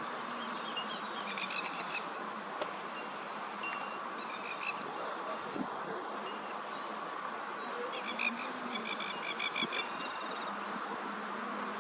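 Birds calling in three bursts of rapid, high chattering notes over a steady background hiss.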